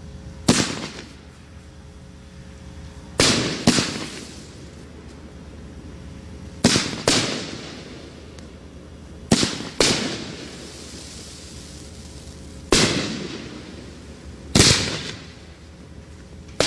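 A 500-gram multi-shot fireworks cake firing shots in sequence: about nine sharp bangs every few seconds, several of them in quick pairs, each fading away over about a second.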